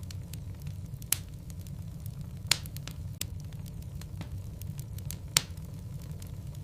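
Wood logs burning in a fireplace, crackling steadily over a low rumble, with three loud sharp pops at about one, two and a half and five seconds in.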